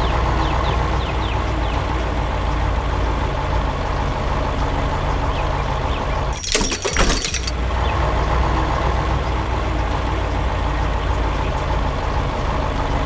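Heavy truck engine running steadily, with a short loud burst of noise about halfway through lasting about a second.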